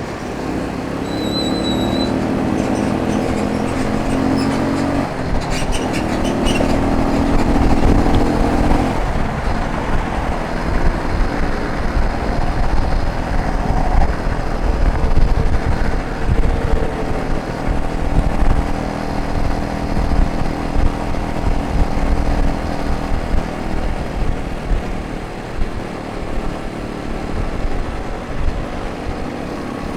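Motorcycle engine running while riding, its note most prominent in the first several seconds, with wind rumbling on the microphone.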